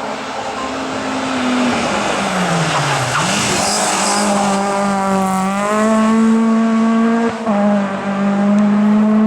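Hill climb race car engine at racing revs: its pitch falls as the car slows into a corner about three seconds in, then climbs again and holds high as it accelerates away, with a brief break around seven seconds. Tyre noise is loudest as the car passes closest.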